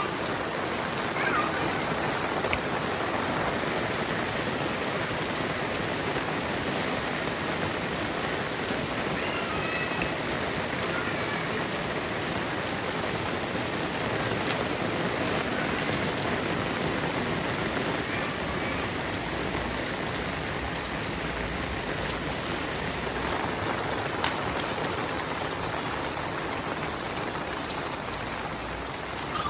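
Heavy rain falling, a dense, steady hiss of drops hitting surfaces.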